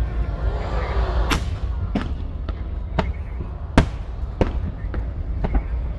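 Fireworks bursting: about seven sharp bangs at uneven intervals, the loudest a little past halfway, over a steady low rumble. Faint crowd voices sound in the first second.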